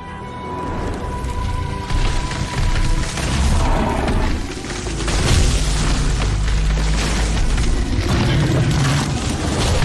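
Dramatic background music overlaid, from about two seconds in, with heavy booming, rumbling impact and explosion sound effects that build and stay loud.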